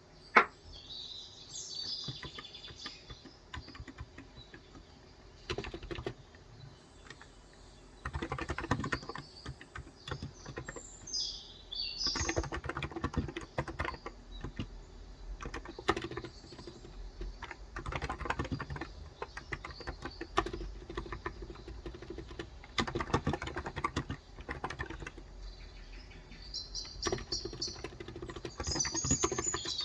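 Typing in irregular bursts on a COX Endeavor tenkeyless electrocapacitive (Topre-style) keyboard with 35 g switches, with pauses between runs of keystrokes. Small birds chirp in the background, and there is one sharp, loud click just after the start.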